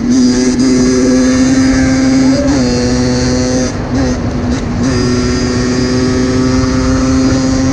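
Small two-stroke motorcycle engine running at high, steady revs, with a brief dip in revs a little before the middle and then back up to the same pitch.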